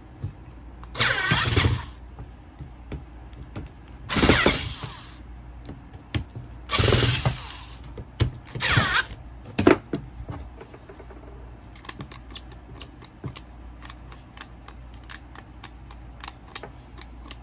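Electric angle grinder switched on in four short bursts of about a second each, its motor spinning up and cutting off each time, then a brief fifth blip. These are test runs after reassembly.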